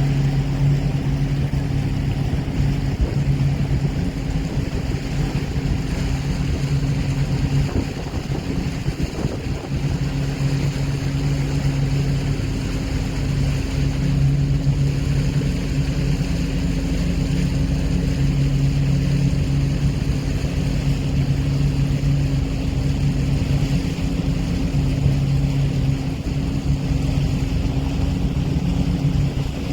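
An engine running at a steady, unchanging drone over a low rumble, with wind on the microphone.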